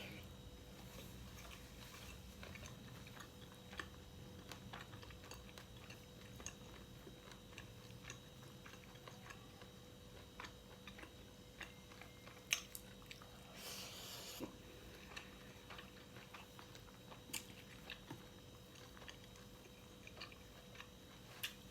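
A person chewing and biting food close to the microphone, with many small scattered clicks, one sharper click about twelve seconds in and a short rush of noise about fourteen seconds in.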